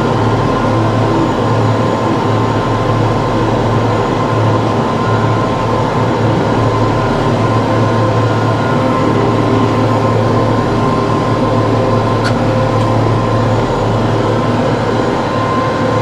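TYM T654 tractor running steadily under work, a continuous low engine hum with a steady higher whine.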